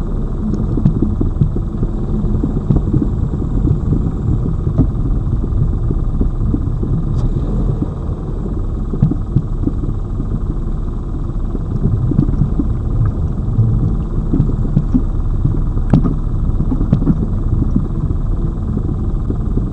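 Lada Vesta Cross front suspension heard up close at the right front strut mount while driving over a rough road: steady rumble with repeated irregular knocks and clunks, and one sharp click about 16 seconds in. The knocking comes from the original SAAZ right shock absorber, which the owner takes for the worn strut causing the suspension knock.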